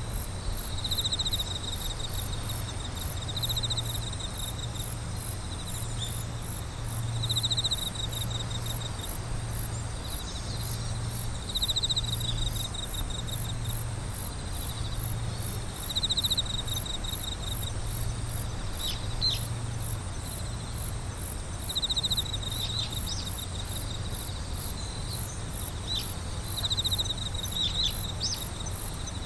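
Night insects calling: a very high, fast, even pulsing runs throughout, with a lower trill breaking in for about half a second every couple of seconds, and a few short chirps in the last third.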